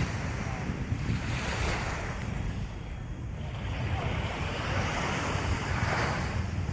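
Ocean surf washing onto a beach, the hiss of the waves swelling and easing, with wind buffeting the microphone.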